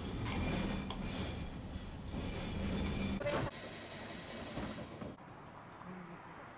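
Tosaden streetcar running, a steady rumble with faint high wheel squeal; after a sharp click about three and a half seconds in the sound drops much quieter, and drops again about a second and a half later.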